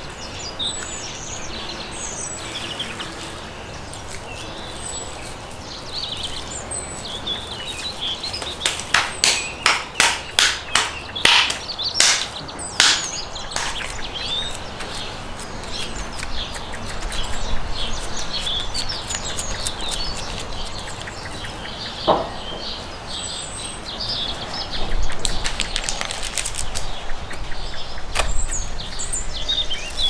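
Small birds chirping again and again. About ten seconds in comes a quick run of about a dozen sharp slaps or taps, with one more later on.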